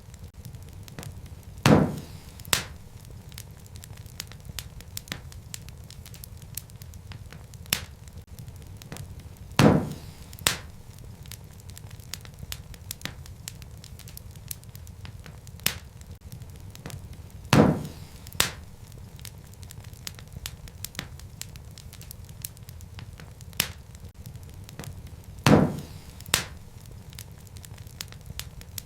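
Wood fire crackling in a fireplace: a steady low rumble of flame with scattered sharp crackles, and a louder pop about every eight seconds, repeating like a loop.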